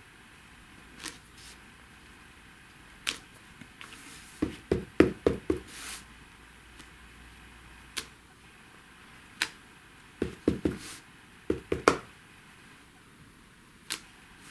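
Stamp and ink pad tapping on the card and desk. A quick run of knocks comes about four seconds in and another around ten to twelve seconds, with single clicks in between.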